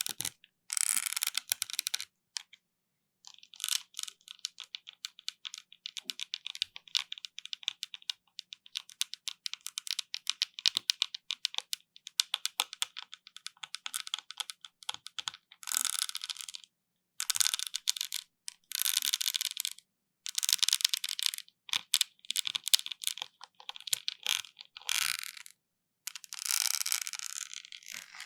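Close-miked scratching and rapid crisp clicking against the microphone, in bursts lasting one to a few seconds with short silent gaps.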